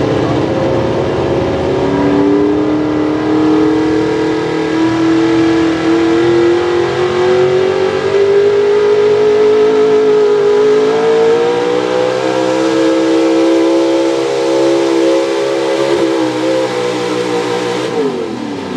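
Pro Stock 4x4 pulling truck's engine held at high revs under load during a pull, its pitch climbing slowly and then holding. Near the end the pitch falls away fast as the throttle comes off.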